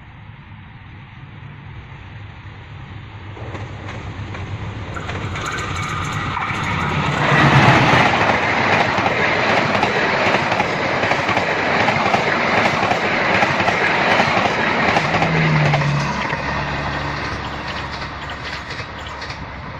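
A passenger train approaching and passing on the track, its wheels running over the rails. The sound builds for the first several seconds, is loudest through the middle, then fades toward the end.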